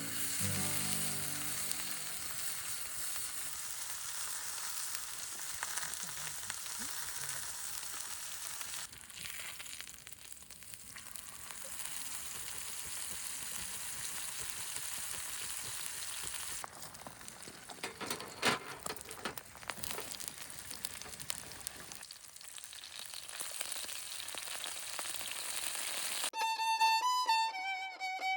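Food sizzling as it fries in a pan: a steady hiss with a brief run of crackles and pops partway through. Background music comes in near the end.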